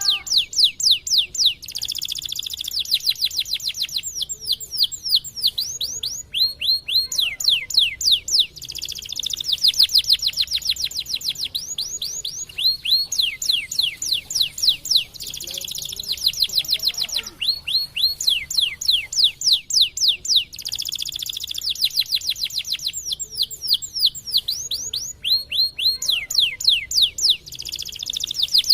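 White domestic canary singing without pause: long trilled phrases of rapidly repeated high, sweeping notes, many per second, with the note type changing every few seconds and buzzy rolls between them.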